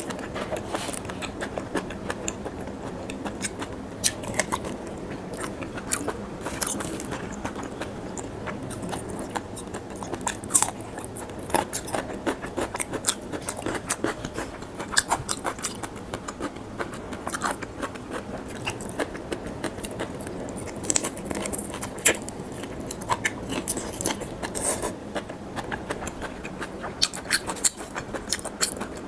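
Close-miked chewing and biting of raw shrimp, with many irregular sharp clicks and crackles over a steady mouth-noise background.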